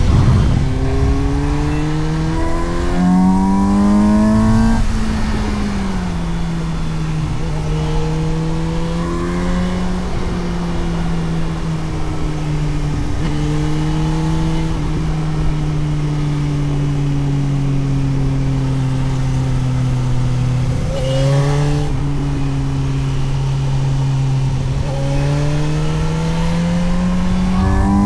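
Suzuki GSX-S750's inline-four engine heard onboard: revs climbing hard in the first few seconds, then dropping with an upshift about five seconds in. It holds fairly steady revs through the middle, dips briefly a little past twenty seconds and climbs again near the end, with wind noise throughout.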